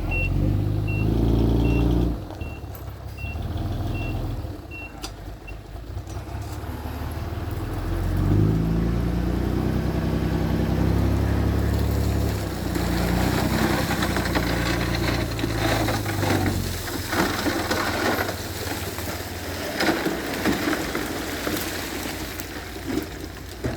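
Heavy diesel earthmoving machinery running and revving, with a reversing beeper sounding for the first few seconds, then a long rattling, crackling noise over the engine in the second half.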